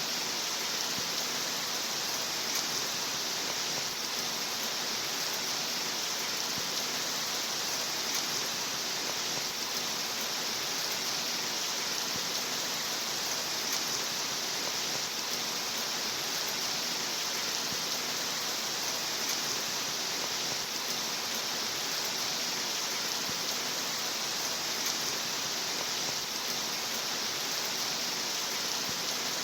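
Steady, continuous rain with an even hiss and no single drops or pauses standing out.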